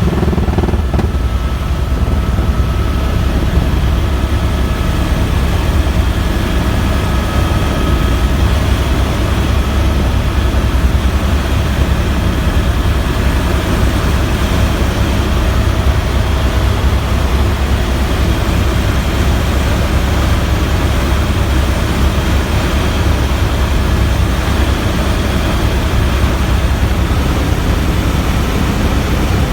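Helicopter in flight, heard from inside the cabin: a steady drone of rotor and engine, heaviest in the low end, with faint steady whine tones above it.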